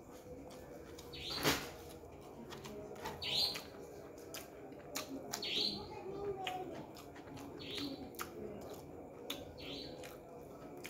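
Close-up chewing and mouth smacks of someone eating rice and chicken hearts by hand, with many sharp wet clicks, the loudest about a second and a half in. A short high chirp recurs about every two seconds underneath.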